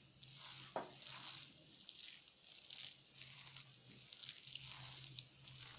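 Bare hands mixing and mashing raw minced chicken with spices and onion, giving faint, irregular wet squelching, with one sharp click about a second in.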